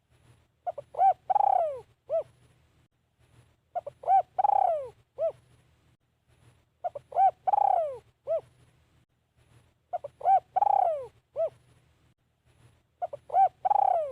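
Spotted dove cooing. Its song phrase repeats about every three seconds, five times: a few short coos, a long falling coo, then one short closing coo.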